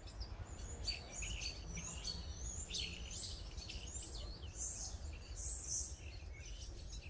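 Several birds chirping and calling at once: quick, overlapping high whistles and short gliding notes, over a low steady rumble.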